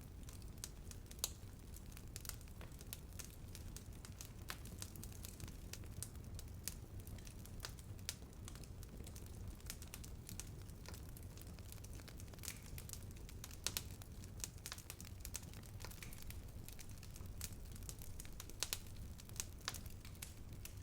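Bonfire burning, a steady low rumble with irregular crackles and snaps, a few louder pops about a second in, near the middle and near the end.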